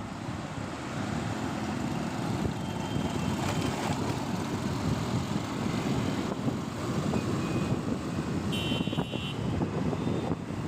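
Steady street-traffic noise heard while riding a motorbike through city streets, with a brief high beep about nine seconds in.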